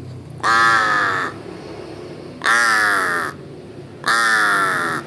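A large bird giving three long, harsh calls about a second and a half apart, each falling slightly in pitch.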